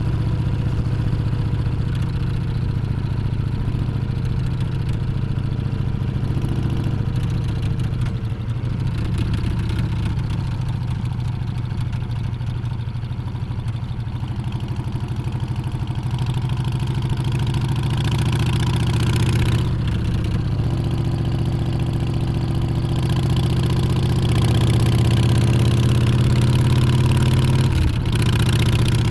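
Harley-Davidson Street Bob's Milwaukee-Eight 114 V-twin running under way on the road. It eases off somewhat mid-way, then pulls with rising pitch and loudness over several seconds before dropping off suddenly near the end.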